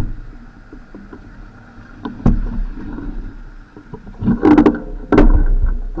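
Bicycle ride noise: a low rumble with sharp knocks and rattles at the start, about two seconds in, and in a cluster near the end, as the bike jolts over bumps.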